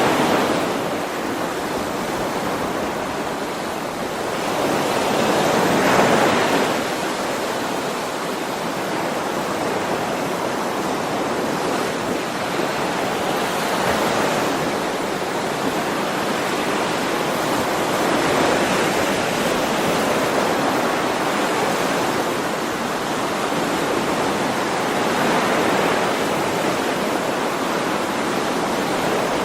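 Ocean waves breaking and washing ashore: a continuous hiss of surf that swells and ebbs every few seconds, loudest about six seconds in.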